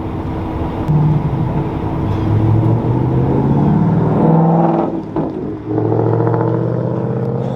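Semi truck's diesel engine pulling away and accelerating, its pitch climbing, with a brief dip about five seconds in as it shifts gear before pulling again.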